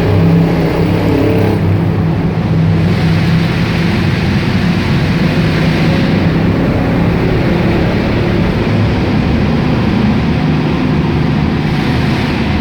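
The 1989 Ford 5.0 L V8 in a 1965 Mustang fastback, running steadily under way with its exhaust note rising and falling slightly in pitch.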